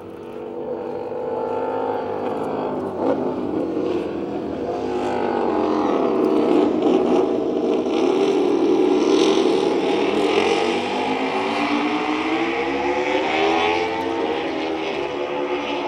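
Honda RC213V MotoGP bike's 1,000 cc V4 four-stroke engine running hard on the track, its pitch rising and falling with the throttle, loudest in the middle.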